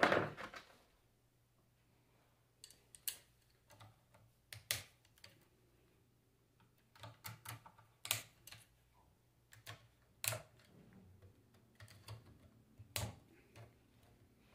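Irregular clicks and light metallic knocks of hand tools and alternator parts being handled while a Bosch alternator is taken apart, with a louder knock at the very start and a faint steady hum underneath.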